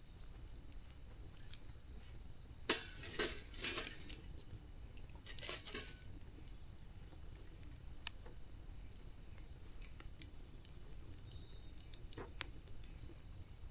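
Wood campfire crackling: scattered sharp pops over a steady low rumble, with two short spells of denser crackling and hiss about three and five seconds in.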